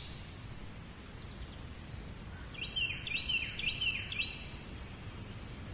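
A small bird calling: four quick repeated high chirps, each dropping in pitch, about three seconds in, over a steady low background rumble.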